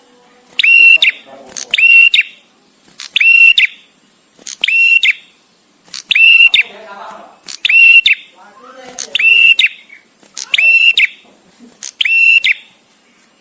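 Male prenjak tamu, a prinia, calling over and over. Each call is a short, loud, shrill note, and nine of them come at an even pace about one and a half seconds apart, with short pauses between.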